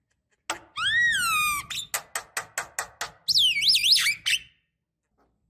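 Javan myna calling: a long whistle that rises and then falls, a run of about seven sharp clicks, then a quick series of up-and-down whistled notes.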